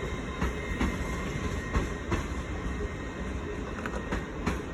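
Train rolling slowly through the station, a steady rumble with a few irregular wheel clicks over rail joints and points.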